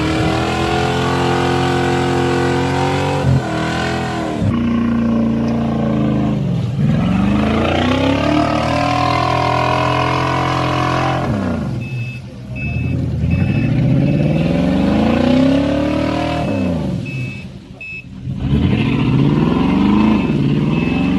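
Engine of a modified off-road 4x4 revving hard in repeated surges, its pitch climbing and falling again and again as it works under load through deep mud. It drops back briefly twice in the second half.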